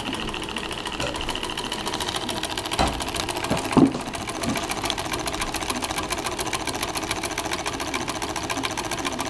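Wiggers model Stirling hot-air engine running smoothly, its linkage of rods and levers clicking in a fast, steady mechanical rhythm. A single louder knock comes about four seconds in.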